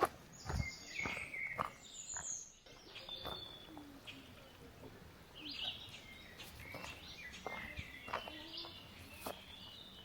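Small birds chirping and singing in short phrases in a forest, with scattered footsteps on a path and steady outdoor background noise.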